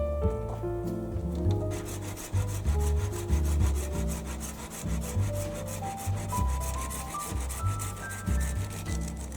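Hand tool working wood in quick, rhythmic scraping strokes, starting about two seconds in and stopping near the end, over background music with sustained notes and a bass line.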